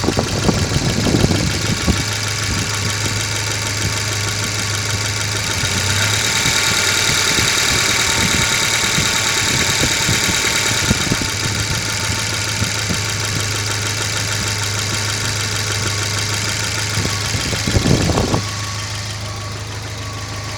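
Volvo B230FB four-cylinder engine running steadily at idle, with a fine ticking rhythm through the engine note. About eighteen seconds in, a brief loud rustle or bump comes over it.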